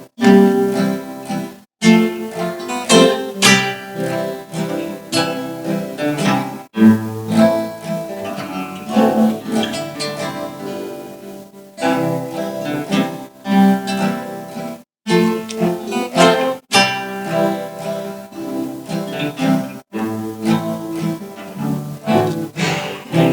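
Student string orchestra playing music, with notes that start sharply and are broken by several brief gaps of silence.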